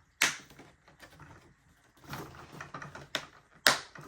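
Sharp plastic clicks and handling noise as an RC plane's wing is fitted to its foam fuselage by its snap-on locking clips: one click at the start, then two quick clicks a little after three seconds, the second the loudest.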